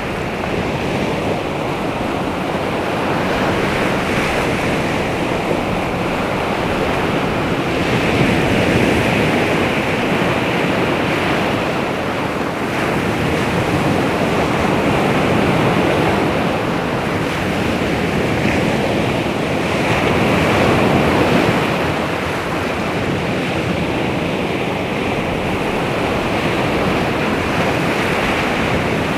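Baltic Sea waves washing onto the shore, a steady rush that swells and eases every several seconds, with wind buffeting the microphone.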